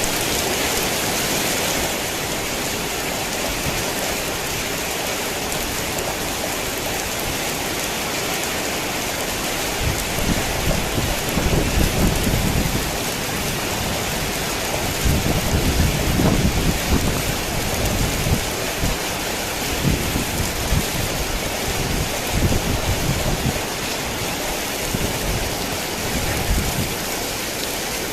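Heavy rain falling steadily, with low rolling thunder rumbling in uneven swells from about ten seconds in until a few seconds before the end.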